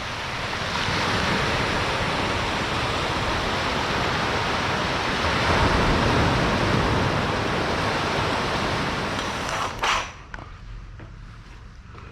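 Ocean surf washing on a beach: a steady rush of waves that swells about halfway through, then cuts off abruptly about ten seconds in, leaving a much quieter background with a couple of short clicks.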